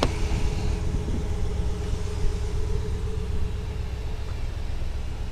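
2020 Ram pickup truck's engine idling, a steady low rumble.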